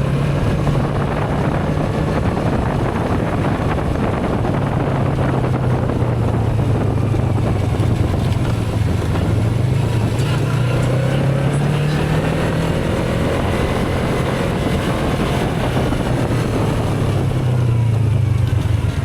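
Motorcycle engine running under way, its low note rising and falling in pitch with the throttle, with wind noise on the microphone.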